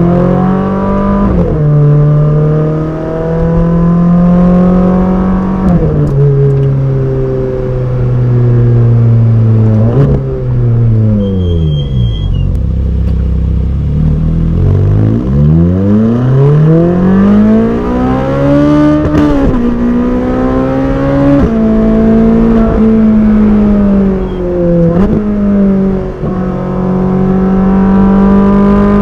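Ferrari 458 Speciale's naturally aspirated V8 pulling hard through the gears, its pitch rising and dropping sharply at each quick upshift. About halfway through the revs fall away as the car slows, then it accelerates again through several more upshifts.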